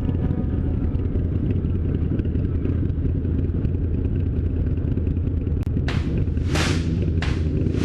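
Motorcycle engine running steadily while riding, a low rumble. About six seconds in, short hissing whooshes begin and repeat roughly every two-thirds of a second.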